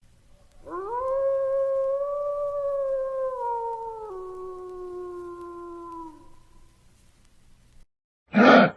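Wolf howling: one long howl that rises at the start, holds its pitch, drops to a lower note about four seconds in, and trails off.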